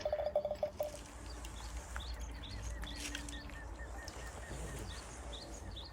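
Outdoor ambience with small birds chirping faintly over a steady low rumble, a pulsing trill dying away within the first second.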